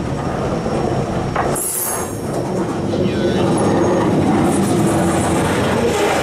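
Freight train cars, a covered hopper and a tank car, rolling past close by: steady wheel-on-rail rumble and rattle, with a brief high hiss about a second and a half in.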